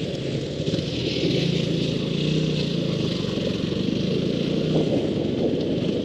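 Motorcycle engine running steadily, with a low hum over an even rush of noise.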